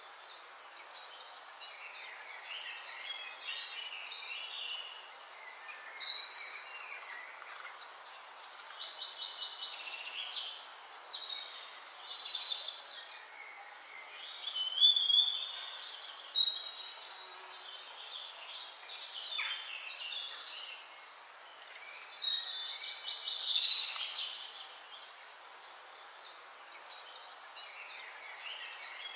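Several birds chirping and singing over a steady background hiss, their calls coming in clusters of short chirps and trills, the loudest about six seconds in.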